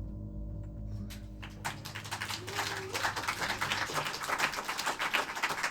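The last chord of a jazz quartet's ballad rings out and fades. About a second and a half in, a small audience starts applauding.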